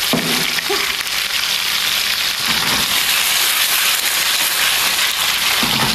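Tofu and meat sizzling steadily as they fry in plenty of hot oil in a pan.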